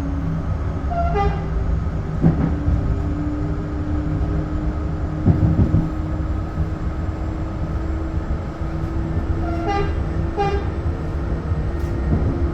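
Train horn giving short toots, one about a second in and two in quick succession near the end, over the steady running rumble of a train.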